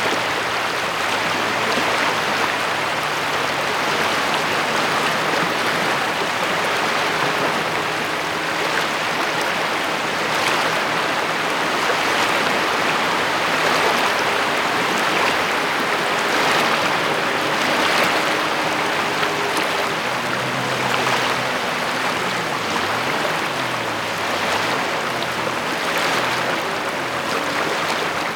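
Steady rain falling, a continuous even hiss. A faint wavering low hum sits beneath it in the second half.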